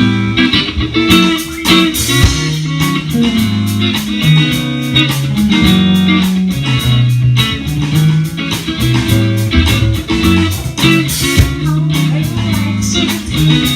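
A band playing a song: guitar over a moving bass line, with a steady beat of drum strokes.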